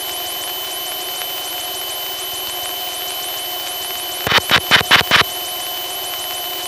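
Steady drone of a Piper Tomahawk's four-cylinder Lycoming engine heard in the cockpit through the headset. A little over four seconds in comes a rapid string of about seven push-to-talk mic clicks, keying the radio seven times in about a second to switch on pilot-controlled runway lights at maximum brightness.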